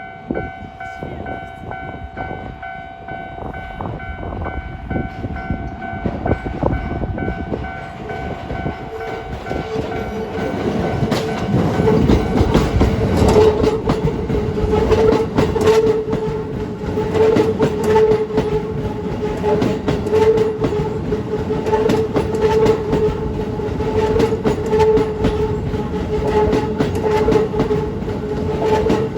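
Level-crossing alarm ringing while a Keikyu New 1000 series electric train passes over the crossing. The train's rumble builds from about ten seconds in, with its wheels clattering over rail joints.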